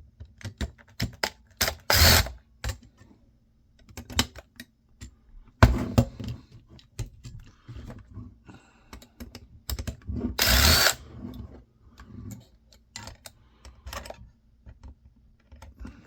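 Dismantling small electronics by hand: irregular clicks and clatter of tools on metal and plastic parts, with a few short, loud bursts of a driver working screws.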